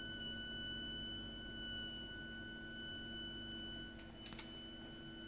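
Continuous shrill high-pitched whistle at one steady pitch from a heating system's heat interface unit (HIU) and pipework, over a lower steady hum. It is an abnormal plumbing noise that goes on for hours even when no heating or hot water is being used. There is a faint click about four seconds in.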